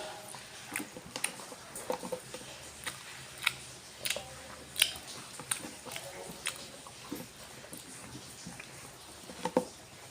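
Close-up chewing and wet mouth smacks of someone eating nasi padang with kikil, sharp irregular clicks a few times a second.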